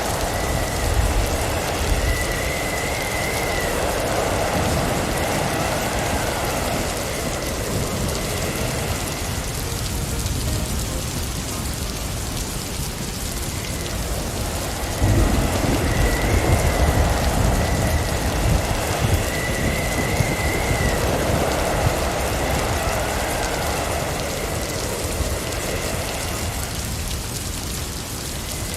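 Snowstorm wind rising and falling in gusts over a steady low rumble, with a faint, wavering high whistle now and then. It turns louder about halfway through.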